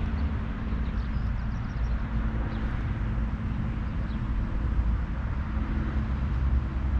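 Steady low rumble of a running engine or nearby traffic, with a constant hum, and a few faint high bird chirps.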